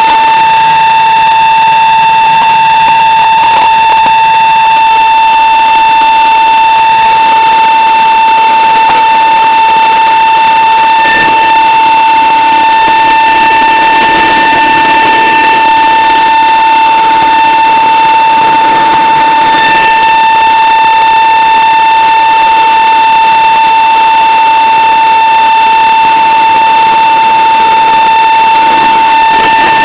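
Cessna 172RG stall warning horn sounding without a break during slow flight near the stall, a single steady high tone over the continuous noise of the engine and propeller in the cockpit.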